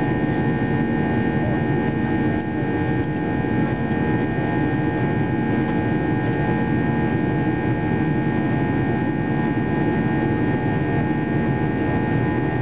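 Steady in-flight cabin noise of a Boeing 737-800: the rush of airflow and the hum of its CFM56-7B jet engines, with several steady tones running through it.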